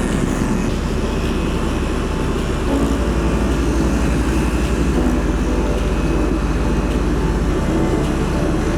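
A fishing boat's engine running steadily as the boat travels, with a constant low hum.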